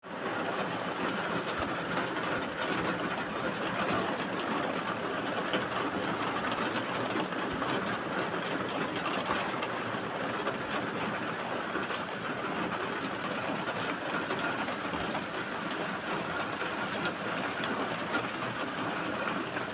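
Steady rain falling: a dense hiss of drops with many small scattered taps.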